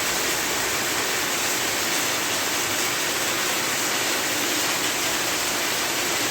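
Heavy rain pouring steadily: a dense, even hiss with no letup.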